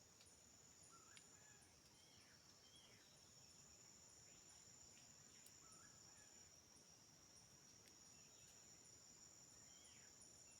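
Faint rainforest ambience: a steady high-pitched insect drone with a higher insect chirp pulsing about twice a second, and several short chirping calls scattered through.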